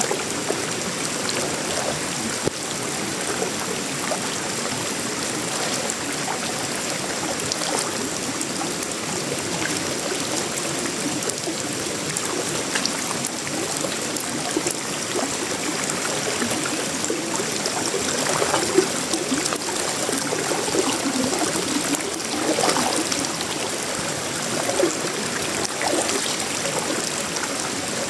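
Tropical rain falling steadily on a sheet-metal roof, wood and leaves, a dense hiss of countless drops with trickling water, swelling slightly now and then.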